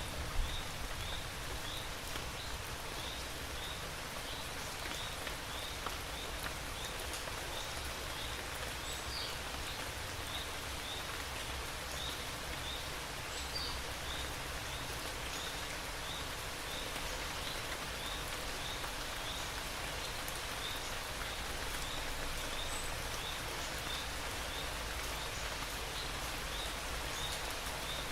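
Steady rain falling, an even hiss of drops. Over it, a faint high chirp repeats about twice a second.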